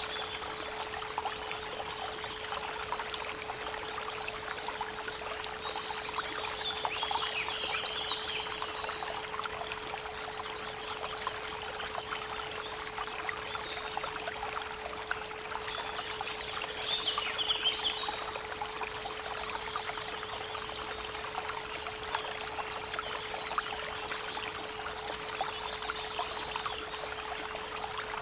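A steady 432 Hz pure tone under the constant rushing of a creek, with a bird singing a short chirping phrase twice, a few seconds in and again a little past halfway.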